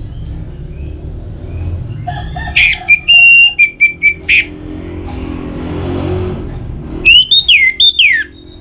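Orange-headed thrush singing: two loud bursts of whistled song, one about two seconds in and one near the end, the second made of notes that sweep down in pitch, over a steady low hum.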